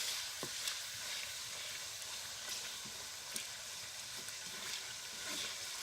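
Chicken pieces frying in hot oil over a medium flame: a steady sizzle, with a few faint clicks scattered through it.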